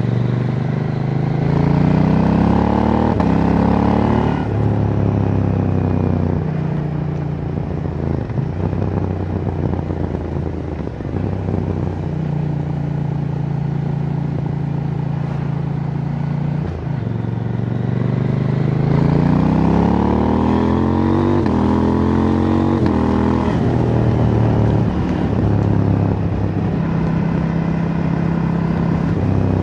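2024 KTM 790 Duke's parallel-twin engine through its stock exhaust, under way: it pulls up through the revs twice, and each pull is cut off by quick upshifts that drop the pitch in steps. Between the pulls it runs at a steady cruise.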